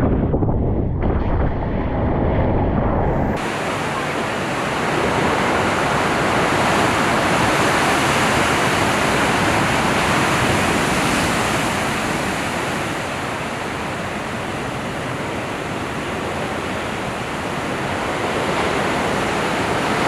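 Wind buffeting the microphone with a low rumble. About three seconds in it gives way abruptly to a steady, loud rushing hiss of ocean surf and whitewater.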